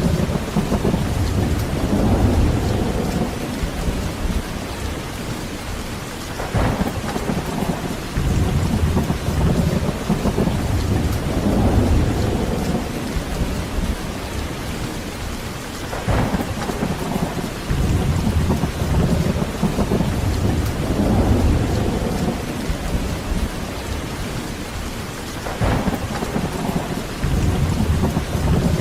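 Heavy steady rain with low rolling thunder that swells and fades several times, each swell opening with a short sharper crack, about every nine to ten seconds.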